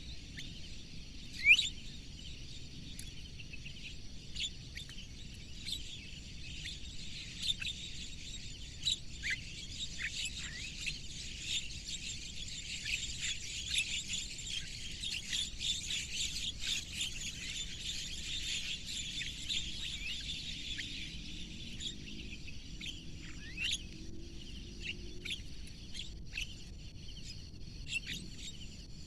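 Birds chirping and chattering, with a loud rising chirp about a second and a half in and the calls thickest in the middle, over a faint steady high-pitched hum.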